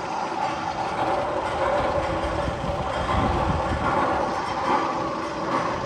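Steel roller coaster train rumbling along its track, a steady rolling noise.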